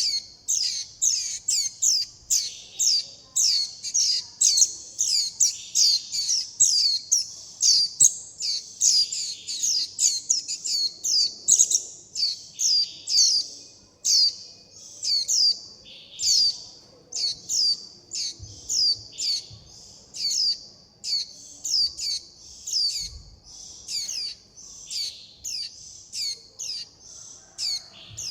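Juvenile white-eyes (vành khuyên) calling nonstop for their parent and begging for food: a rapid run of short, high, down-sweeping chirps, about two a second.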